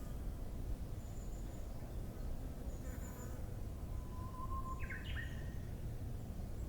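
Japanese bush warbler (uguisu) singing: one long whistled note, then a quick rising-and-falling flourish, about four to five seconds in. Faint high chirps and a steady low background rumble run underneath.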